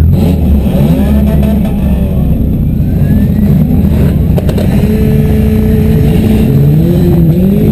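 Demolition derby cars' engines running and revving loudly, several engine pitches rising and falling at once, with a couple of sharp knocks about halfway through.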